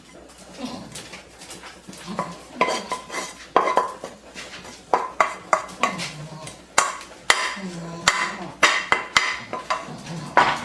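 Kitchen clatter of dishes and cutlery: irregular clinks and knocks, some ringing briefly, coming faster in the second half.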